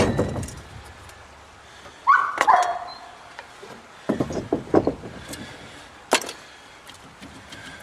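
Scattered metal knocks and clanks from axle parts being handled. About two seconds in there is a short, loud, bark-like cry that falls in pitch.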